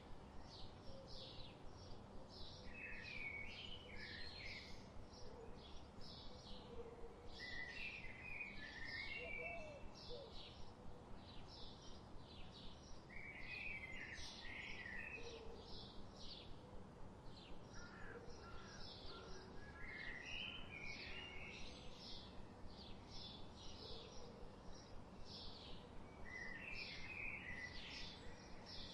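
Forest birds singing: a steady run of quick, high chirps, with a lower warbling phrase from another bird about every five seconds and a few faint low whistled notes.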